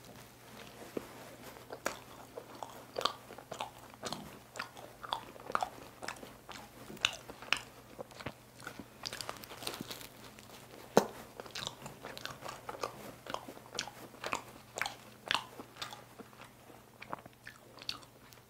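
Close-up eating sounds of a flaky cream-filled pastry: biting and chewing with many small, crisp crackles of the flaky crust, one sharper crunch about 11 seconds in.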